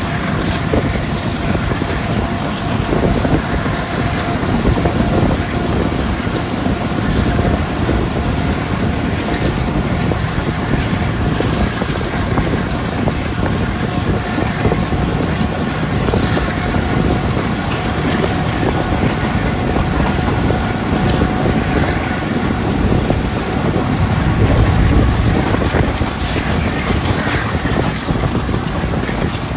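Passenger train running steadily along the track, heard from an open coach window: a constant rush of wind on the microphone over the rumble of the wheels on the rails, with a faint steady whine.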